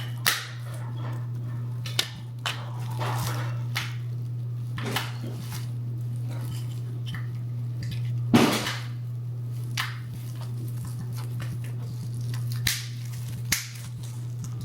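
Batteries being fitted into a plastic battery box of a battery-powered Christmas light garland: scattered short clicks and knocks, the loudest about halfway through, over a steady low hum.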